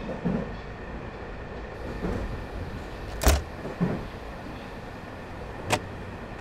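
Train running: a steady low rumble with a few short low creaks and two sharp clunks, the louder about three seconds in and a softer one near the end.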